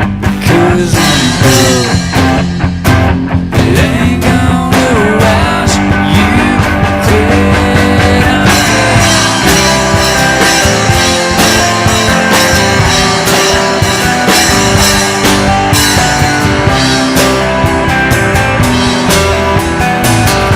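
Live band playing an instrumental passage with no singing: a guitar lead with bent, gliding notes over bass and steady drum hits.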